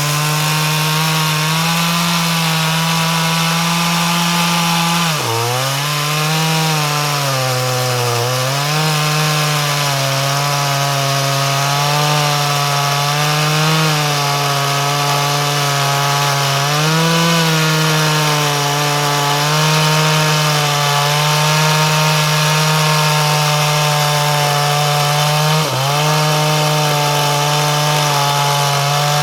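Chainsaw's two-stroke engine held at high revs on a test run after repair, its pitch dipping sharply and recovering three times.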